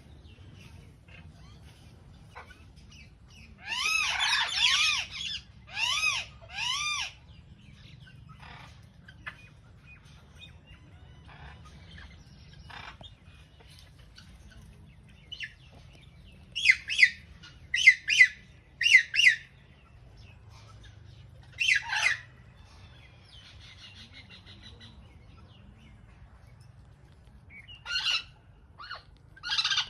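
Indian ringneck parakeet giving loud, harsh squawking calls in short runs: three about four seconds in, four quick ones past the middle, a single call a little later, and another run near the end. A faint steady low rumble lies underneath.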